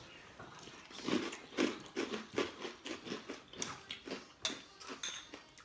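Crunchy maple bacon donut cereal being chewed, a steady run of crunches at about two or three a second.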